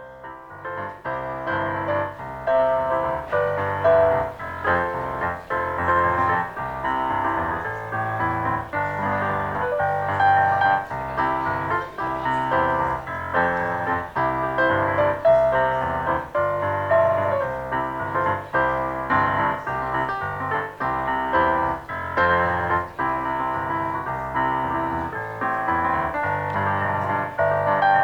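Piano music with many notes in quick succession, steady throughout: a closing voluntary played as the church service ends.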